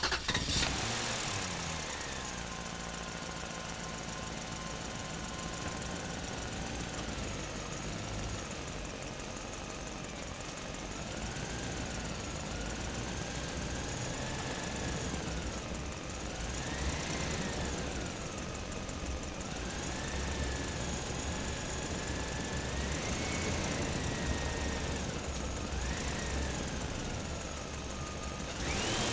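Small motor running steadily, its whine rising and falling in pitch every few seconds.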